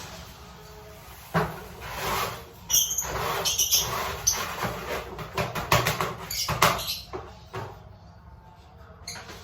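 Lovebirds giving short high chirps amid a run of sharp clicks and rustling, which quiets down near the end.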